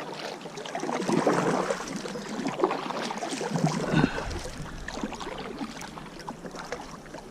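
Kayak paddling in river water: irregular splashes and drips from paddle strokes, with a brief low thump about four seconds in.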